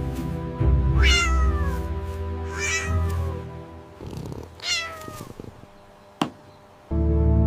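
A cat meowing three times, each meow falling in pitch, over background music. A single sharp click comes near the end.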